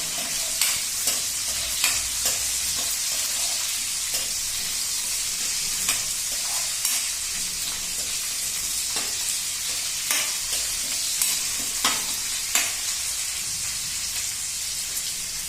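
Green chillies and garlic sizzling steadily in hot oil in a pan, with scattered short clicks and scrapes as the pan is stirred.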